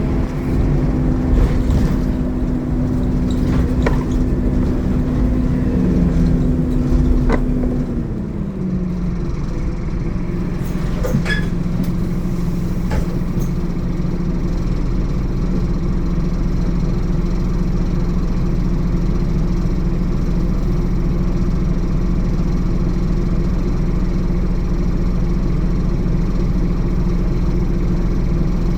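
Scania N230UD Omnicity double-decker bus's diesel engine running, its note dropping about eight seconds in and then holding steady, with a few rattles and clicks in the first dozen seconds.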